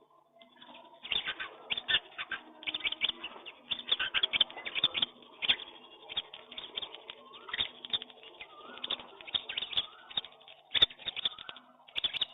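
Pigeons cooing low among a mixed flock of feeding birds, with a dense run of short, sharp clicks and chirps coming irregularly throughout.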